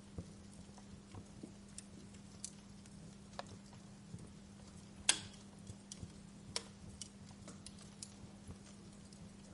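Wood fire crackling in a fireplace: scattered sharp pops and snaps over a low steady hiss, with one louder pop about halfway through. A faint steady hum runs underneath.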